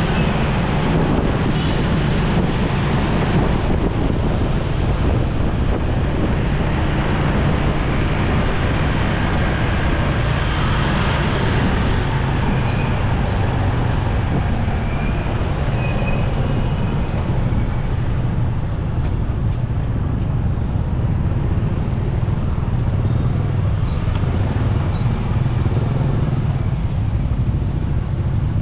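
Steady motorcycle engine, road noise and surrounding traffic heard from a moving motorbike riding through city traffic, with a deep rumble throughout.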